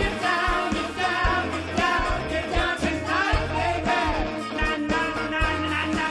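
A rock band playing a song with a lead singer over drums and bass.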